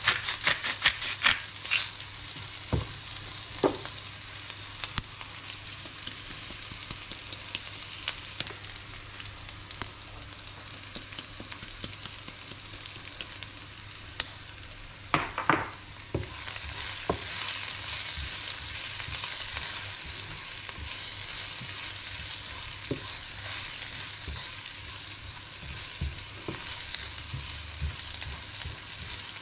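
Sliced onions sizzling in a frying pan. A salt grinder clicks in the first couple of seconds; about halfway through, oil is poured in and the sizzle grows louder, with a few spatula scrapes and taps near the end.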